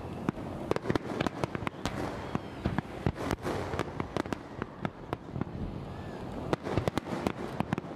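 Fireworks display: many aerial shells bursting in quick, irregular succession, sharp bangs and crackles over a continuous rumble.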